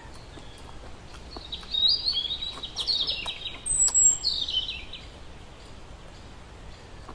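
A songbird singing a run of bright chirping and trilling phrases lasting about three seconds, starting around a second and a half in. Faint clicks of chewing and handling food sound around it.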